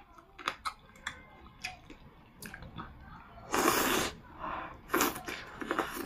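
Close-miked eating sounds: wet chewing and mouth clicks on lamb offal, then a loud slurp of hot soup about three and a half seconds in, with shorter slurps and sips near the end.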